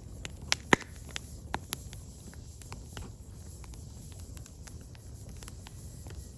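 Firewood burning, with irregular crackles and sharp pops over a low rumble of the fire. The loudest pops come in the first second.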